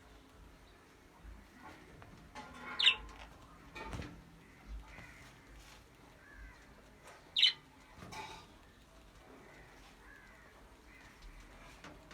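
Budgerigars chirping softly, with two loud, sharp, high calls, one about three seconds in and one about seven seconds in, and a single knock or wing flap in between.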